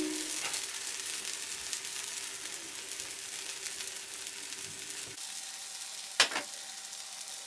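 Matcha pancakes sizzling in oil in a nonstick frying pan: a steady, fine crackling hiss. A single sharp knock comes about six seconds in.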